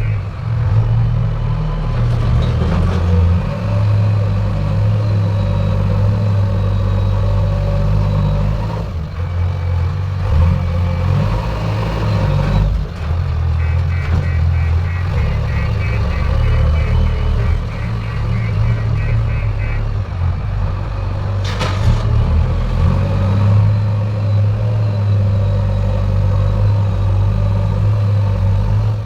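Diesel engine of heavy earthmoving machinery running steadily with a low throb. A rapid run of high beeps sounds for several seconds about halfway through, and a single short sharp noise comes near the end.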